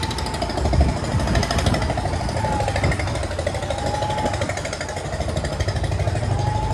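Heavy diesel engine of a bus or truck working under load, a low rumble with a rapid knocking beat. A wavering whine near the top rises and falls every couple of seconds over it.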